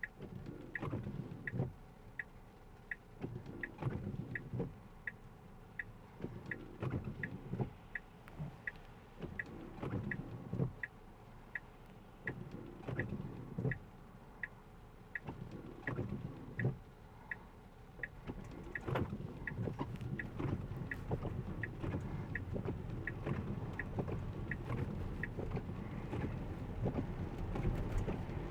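Tesla turn-signal indicator ticking about one and a half times a second inside the cabin, over rain and tyre noise with irregular low thumps. The road noise grows louder and steadier about two-thirds of the way through.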